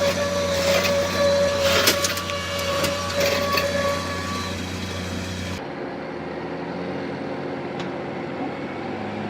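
Heavy vehicle engine running with a steady whine and several sharp knocks. After about five and a half seconds the sound changes abruptly to a duller, lower engine hum.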